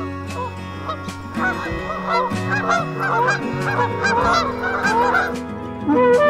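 Geese honking, a rapid run of short calls, over background music.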